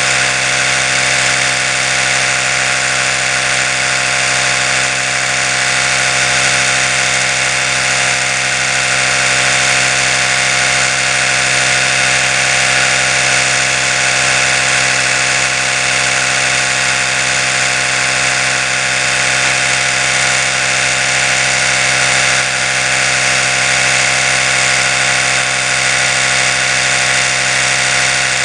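Oral-B electric toothbrush running continuously, a steady, unchanging motor buzz.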